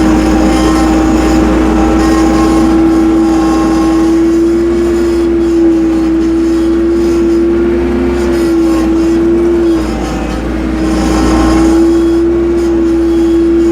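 Tractor running as it drives along, with a steady whine holding one pitch that dips slightly about ten seconds in, over a constant low rumble.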